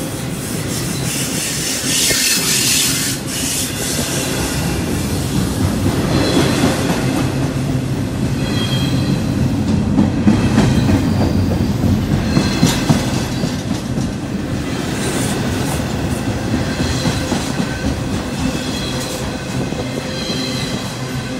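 Double-stack intermodal container train rolling past: a steady, loud rumble of steel wheels on rail, with repeated clacks and clanks from the passing cars and a thin high wheel squeal that comes and goes.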